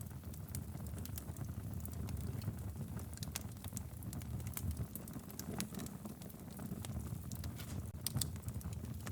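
Logs burning in a fireplace, crackling with irregular sharp pops and snaps over a low steady rumble.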